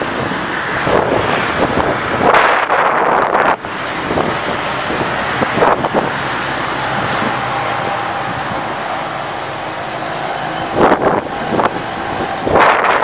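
Strong dust-storm wind blowing in gusts and buffeting the microphone, with road traffic running underneath.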